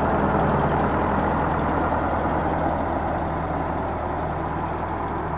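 Ford 9N tractor's four-cylinder flathead engine idling with an even, steady beat, getting slightly quieter about halfway through.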